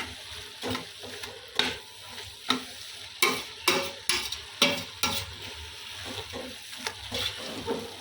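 A spoon stirring and scraping a pot of green leaves frying in palm oil with tomato, over a steady sizzle. The scrapes come irregularly, about one or two a second, loudest in the middle.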